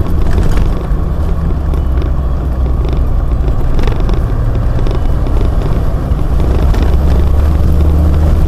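Land Rover Defender driving steadily along a dirt track: a steady low engine and drivetrain drone with tyre and track noise, heard from the bonnet.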